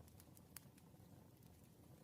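Faint wood fire burning: a soft low rumble of flames with scattered sharp crackles and pops, the loudest about half a second in.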